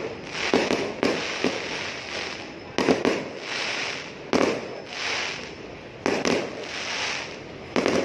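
Aerial fireworks going off: several sharp bangs, irregularly spaced from half a second to a second and a half apart, with a hissing crackle filling the gaps between them.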